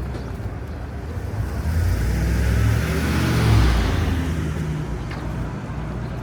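A motor vehicle passing close by on the street: its engine hum and tyre noise swell, peak about three and a half seconds in, then fade away.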